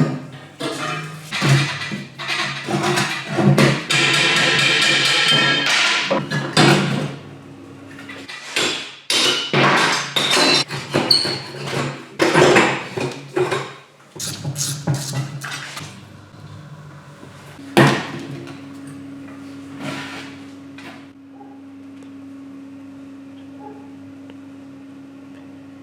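Hand tools and metal parts of a pocket bike knocking and clattering as it is taken apart, with many separate hits over a steady low hum. About two thirds of the way through the knocking thins out, and a steady low tone carries on to the end.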